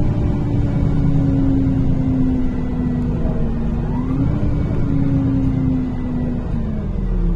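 NefAZ-5299 city bus engine and drivetrain running under way, heard from inside the cabin: a steady rumble with a whine that slowly drops in pitch, rises briefly about four seconds in, then falls away near the end as the bus slows.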